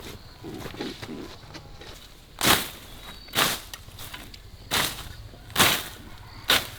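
Grass being slashed by hand with a blade: about five sharp swishing strokes, roughly a second apart, starting about two seconds in.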